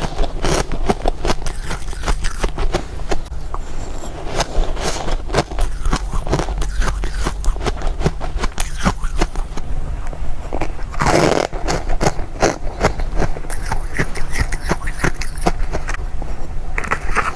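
Freezer frost being bitten and chewed close to the microphone: rapid, continuous crunching, with one longer, louder crunch about eleven seconds in.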